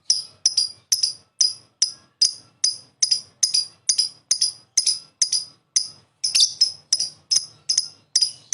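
Lovebird (Agapornis) calling in a steady run of short, sharp, high chirps, about three a second.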